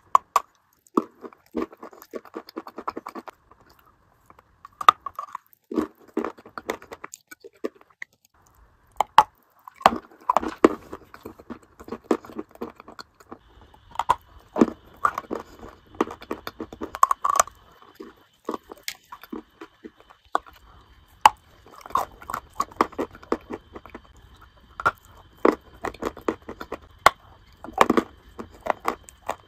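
Close-miked biting and crunchy chewing of a dry, crumbly white food, in bursts of crackling crunches with short pauses between bites.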